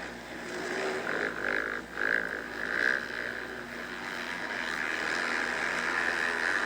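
Motocross dirt bikes racing past, their engines revving up and easing off in several swells, then settling into a steadier drone.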